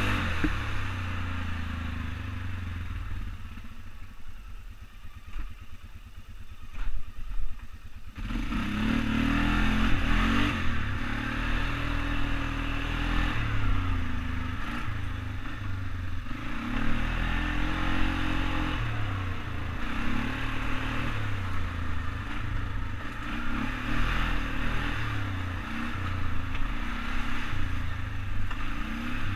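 ATV engine running under way, easing off to a low, quieter note for a few seconds, then picking up again about eight seconds in and rising and falling in pitch with the throttle, with some clatter.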